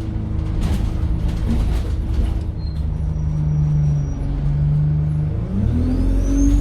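Diesel engine of an Alexander Dennis Enviro 200 single-deck bus idling steadily, then rising in revs about five and a half seconds in. A high turbo whistle starts to climb in pitch near the end.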